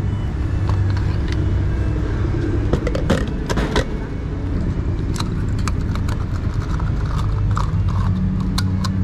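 A car engine running steadily, with several sharp clicks and knocks over it.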